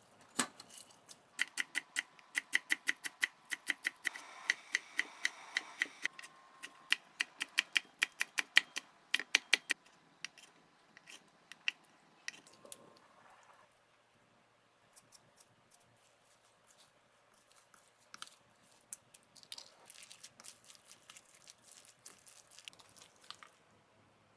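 Kitchen knife chopping on a cutting board in quick, even strokes of about four or five a second, in several runs. In the second half only sparser, quieter knocks and cuts remain.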